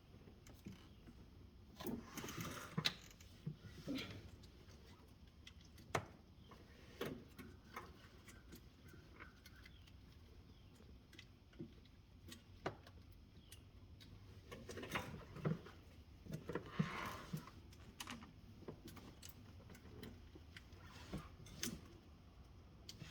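Irregular clinks, knocks and scrapes of hand tools and metal parts being handled, over a faint low hum. The loudest knocks come about 3 s in, at 6 s, and around 15 to 17 s.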